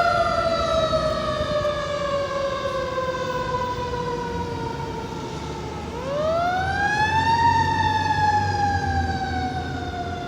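Fire truck siren in a slow wail: the pitch falls steadily for about six seconds, climbs sharply, then falls slowly again. A low engine rumble runs underneath.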